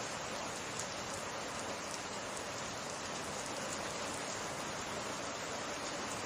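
Steady summer rain falling, an even hiss with scattered faint drop ticks.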